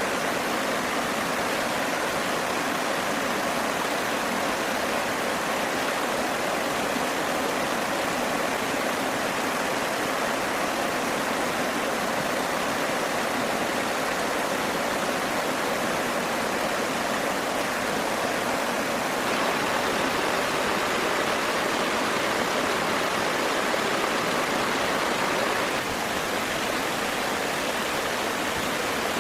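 Steady rushing water, an even hiss with no distinct strikes, a little louder from about two-thirds of the way through until it drops back near the end.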